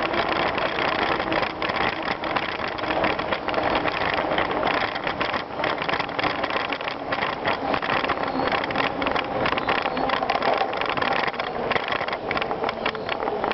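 Bicycle riding over a rough gravel trail: continuous tyre-on-ground noise with the bike rattling, full of small clicks and knocks.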